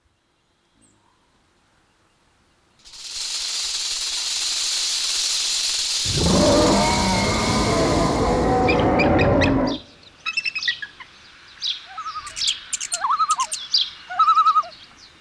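After a near-silent start, a rushing hiss comes in about three seconds in. It swells into a loud, dense mix of many overlapping calls that cuts off abruptly near ten seconds. Separate bird chirps and short calls follow to the end.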